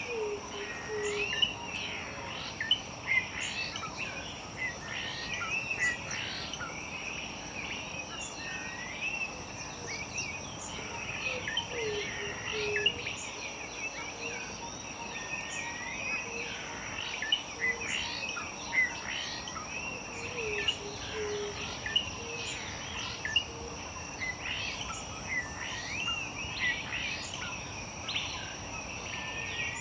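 Chorus of several wild birds singing, with quick whistled glides and sharp chirps, over a steady high-pitched insect drone. A low, short, falling call sounds three or four times.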